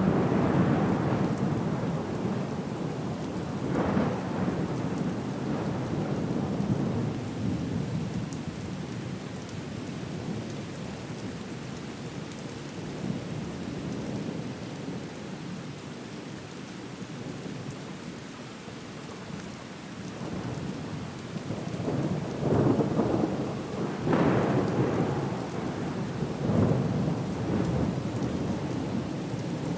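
Sea storm ambience: a steady wash of rain with heavy rumbling surges of storm noise. The surges come at the start, again about four seconds in, and in a cluster over the last several seconds.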